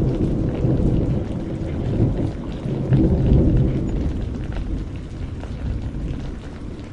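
Rain falling steadily under a long, deep roll of thunder that swells, peaks about three seconds in, and then fades away.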